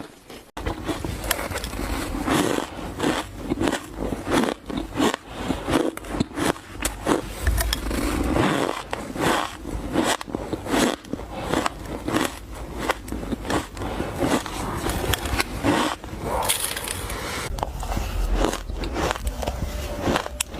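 Ice being bitten and chewed close to the microphone: rapid, continuous crunching and crackling that begins abruptly about half a second in.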